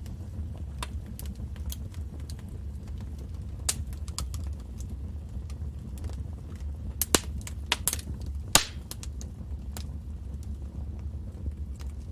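Wood fire crackling in a fireplace: a steady low rumble of burning under scattered sharp pops and snaps, with a few louder snaps just past the middle.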